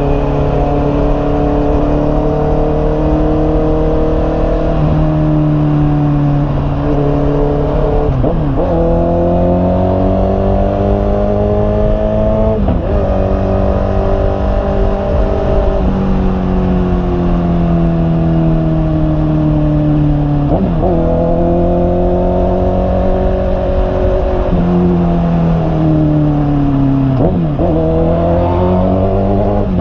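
Honda CB650R's inline-four engine under way. Its pitch rises and falls with the throttle, with a quick dip and recovery about four times, typical of gear changes.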